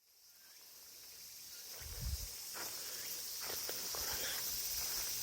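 A steady, high-pitched chorus of summer insects fades in, with a few soft footsteps or thumps about two seconds in and again near the end.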